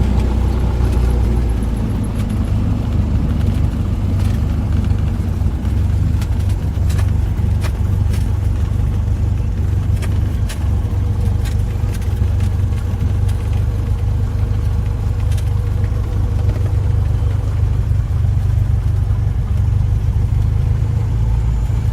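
Cessna 172's single piston engine and propeller running steadily as a low drone, with a few faint clicks.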